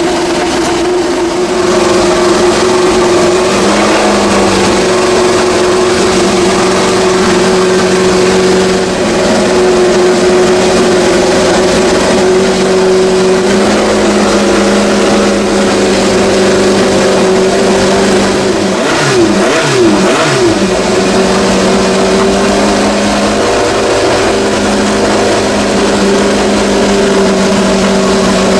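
Historic racing car engines running at a steady, held pitch. About two-thirds of the way through there is a brief swoop of rising and falling pitch.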